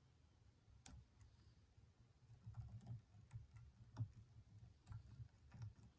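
Faint, scattered small clicks of a lock pick working the pin stack inside a Stanley padlock, with a faint low rumble of handling from about halfway through.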